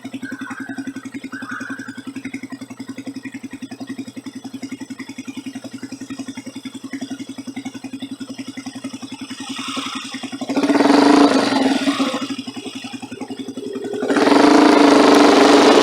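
Motorcycle engine idling with a steady, fast beat, then revving up and pulling away about ten seconds in. It eases off briefly, then accelerates harder near the end, with rushing noise.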